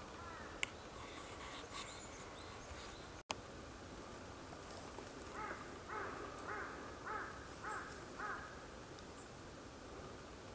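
A bird calls six times in quick succession, about two calls a second, loud and pitched over faint outdoor background noise.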